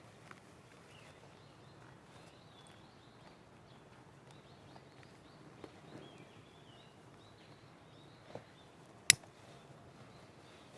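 Quiet woodland ambience with small birds chirping faintly and high in the background, a few light clicks, and one sharp snap about nine seconds in.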